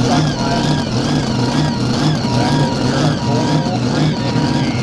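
Mini rod pulling tractor's engine running loudly and steadily, its pitch rising and falling about twice a second.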